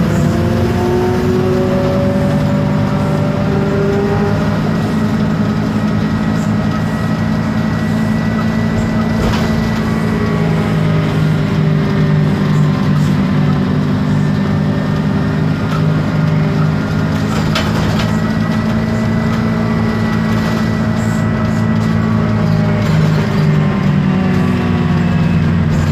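Diesel engine and ZF automatic gearbox of an Isobus City 1200 city bus under way: a steady low engine drone with a gear and differential whine that slowly rises and falls in pitch. A couple of short sharp rattles about ten and eighteen seconds in.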